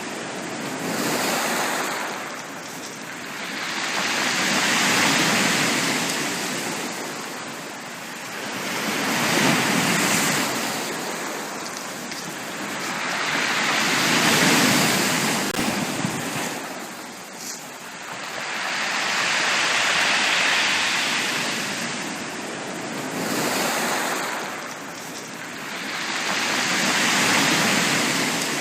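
Sea waves breaking on a beach, the surf swelling and washing back in slow, even surges about every five seconds.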